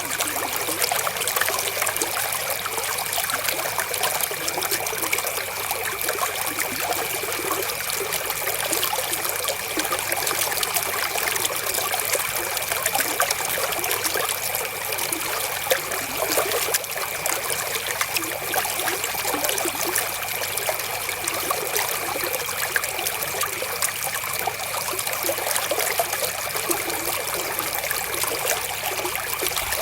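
River water flowing and trickling, a steady even rush with no pauses.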